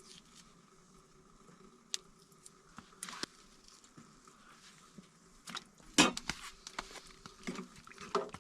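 Knife and pot handling while lamb T-bones are trimmed and the pieces go into the pot: scattered soft clicks and scrapes, with a cluster of sharper knocks about six seconds in and a few more near the end, over a faint steady hum.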